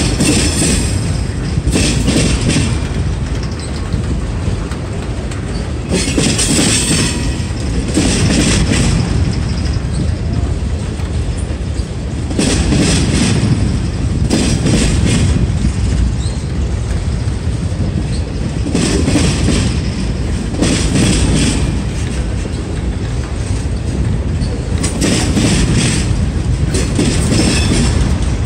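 Boxcars of a freight train rolling past at close range: a steady rumble of steel wheels on the rails, with bursts of clatter and squeal that come in pairs every few seconds.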